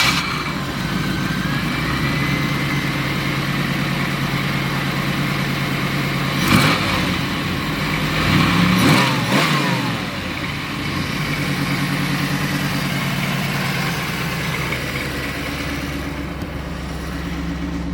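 1987 Pontiac Trans Am's 350 (5.7 L) Tuned Port Injection V8 running at idle, revved briefly about six seconds in and again around eight to nine seconds in, then settling back to a steady idle.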